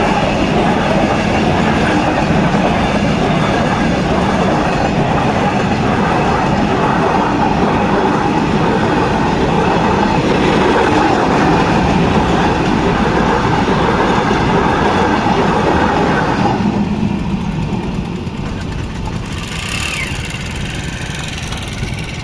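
A train running past at speed, its coaches rattling over the rail joints in a steady clickety-clack; the rolling noise drops away about three quarters of the way through as the train clears.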